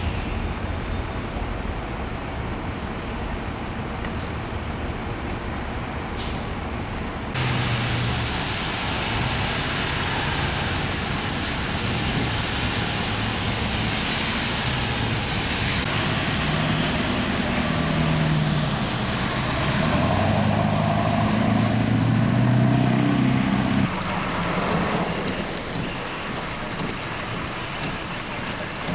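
Steady rushing noise of storm rain and wind mixed with road traffic, with a vehicle engine droning and shifting in pitch in the middle stretch. The sound changes abruptly twice, at about seven seconds and again near the end.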